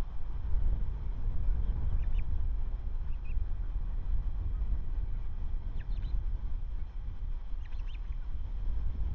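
Wind rumbling steadily on an outdoor nest-webcam microphone, with faint, short, high bird calls a few times.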